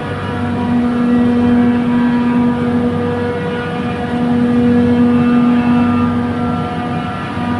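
Trane chiller compressor running: a loud, steady mechanical hum with a strong low tone and evenly spaced overtones over a rough noisy bed, easing slightly and swelling again without a break.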